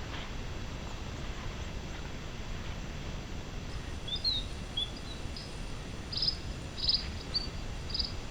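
Steady low wind noise on the microphone, with a small bird calling from about four seconds in: a few quick falling chirps, then several short trilled notes.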